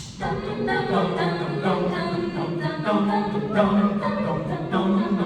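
Collegiate a cappella group singing without words, blending voices into a series of chords that begin abruptly and change about once a second.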